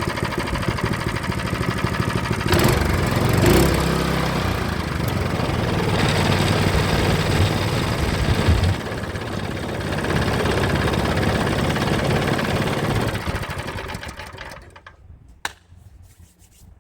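Small gasoline engine of an old Champion pump running steadily after sitting for years, then dying away and stopping about fourteen seconds in, followed by a single sharp click.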